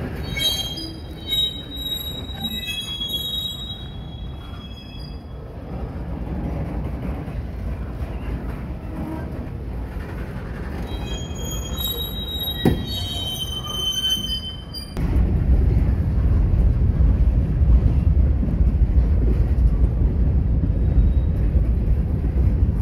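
Freight cars (covered hoppers and tank cars) rolling past with a steady low rumble, wheels squealing in thin high tones during the first few seconds and again around 11 to 14 seconds. The rumble grows louder from about 15 seconds in.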